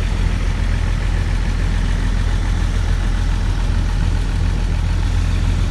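Antique tractor engine running steadily at low speed, a continuous low rumble.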